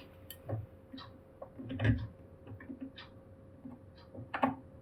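Light, scattered clicks and taps of a precision screwdriver and tiny screws being handled on a laptop, with the sharpest taps just before the second second and a little after the fourth.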